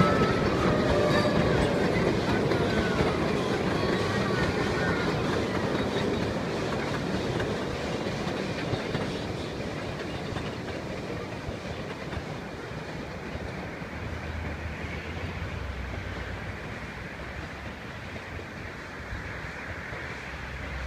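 Puffing Billy narrow-gauge steam train running along the line, its wheels clicking over the rail joints, gradually growing quieter.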